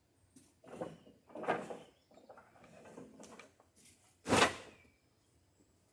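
Wooden boards being shifted and slid against each other in a lumber pile: several short scrapes, the loudest about four seconds in.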